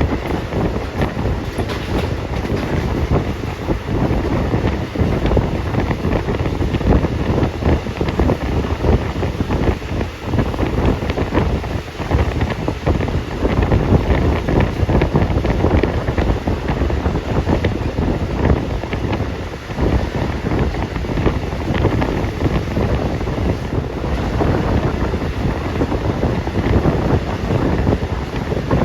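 Steady wind rushing over a phone microphone, mixed with the noise of a moving vehicle.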